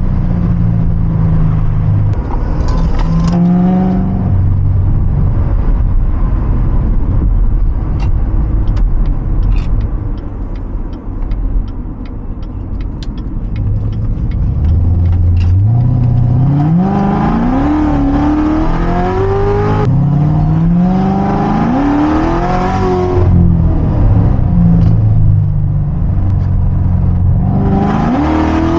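Straight-piped 2016 Corvette C7 Z06's supercharged 6.2-litre V8, with long tube headers and an X-pipe, droning at low cruising revs, with a short rev about three seconds in. A quieter coasting stretch with scattered faint ticks follows, then a hard pull with the engine note rising through three gears, each cut off by an upshift, and another short rise in revs near the end.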